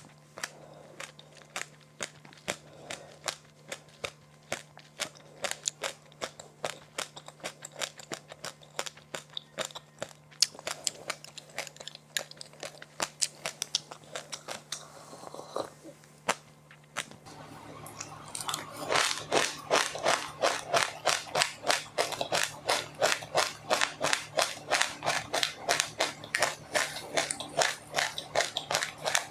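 Close-miked chewing of crisp sesame, rice and flax seed snacks: a run of sharp crunches that grows louder and quicker about 18 seconds in, to about three crunches a second. A faint steady low hum runs underneath.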